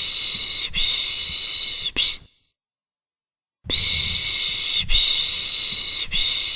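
A person shushing to lull a baby: a run of drawn-out 'shhh' hisses, each a little over a second long with short breaks between them. The hisses stop for over a second, then a new run of shushes begins.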